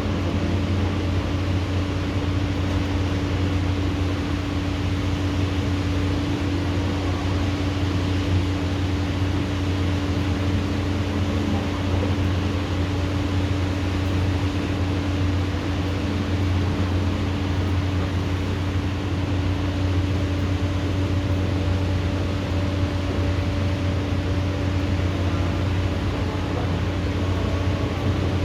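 Steady rushing noise of heavy rain, with a constant low hum underneath; no thunder claps.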